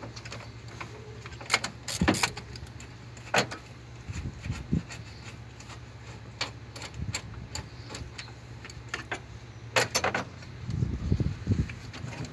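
Scattered sharp clinks and knocks over a steady low hum. The loudest clinks come about two seconds in and again near ten seconds, followed by a short run of dull thumps.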